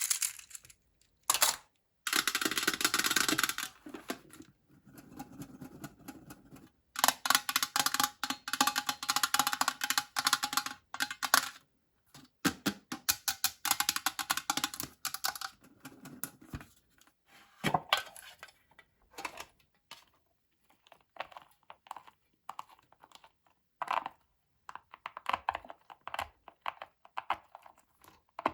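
Plastic packaging being crinkled and handled, in crackly bursts with scattered clicks and pops, as candy toys are unwrapped and opened.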